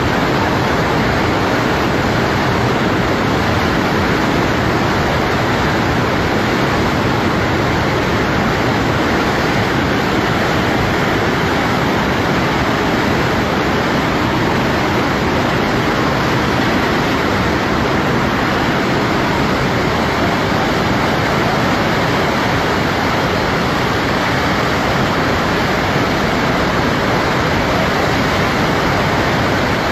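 Heavy rain pouring down, a dense, steady rush of noise that neither builds nor breaks.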